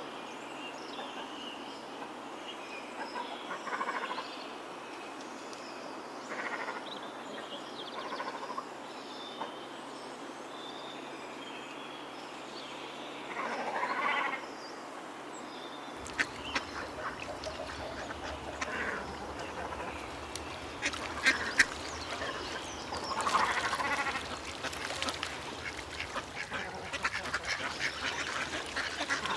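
Ducks quacking in scattered bouts over a steady outdoor background. About halfway through, a low steady noise joins in and quick sharp clicks become more frequent.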